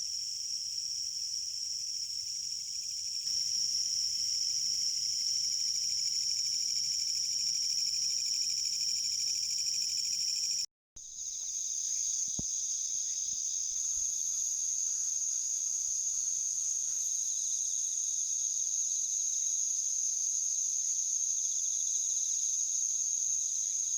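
Steady high-pitched chorus of insects, crickets or similar, singing continuously. It cuts out for a moment about eleven seconds in, then resumes.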